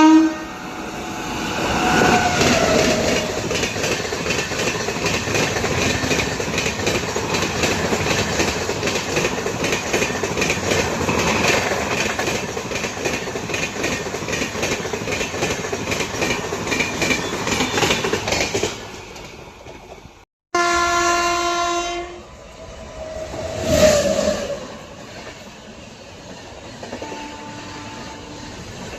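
Express train passing at speed, its wheels clattering rhythmically over the rail joints for about eighteen seconds before fading away. After a cut, a locomotive horn sounds one loud blast, a short loud swell follows a couple of seconds later, and a fainter horn sounds near the end.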